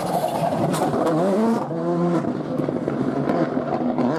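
Rally car engine revving hard on a stage, its pitch climbing and then dropping sharply at gear changes.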